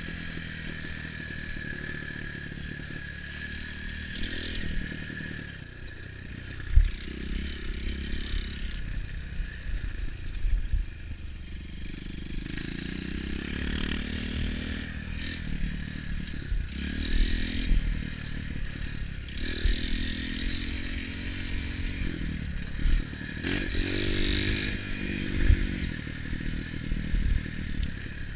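Trail motorcycle engines running, revving up and easing off again and again, with scattered knocks and clatter, the loudest about seven seconds in.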